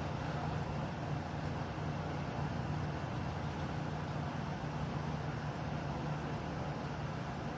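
A steady low mechanical hum over an even hiss, unchanging throughout, with no distinct events.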